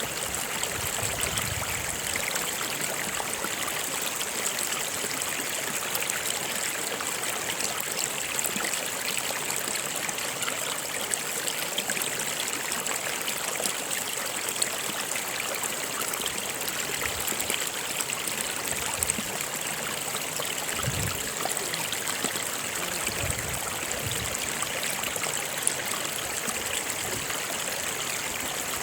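River or stream water flowing steadily, a continuous rushing with small splashes and a few low gurgles about two-thirds of the way through.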